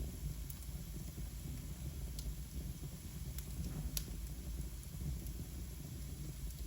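Wood fire burning in a fireplace: a steady low rumble with a few sharp crackles and pops, the loudest about four seconds in.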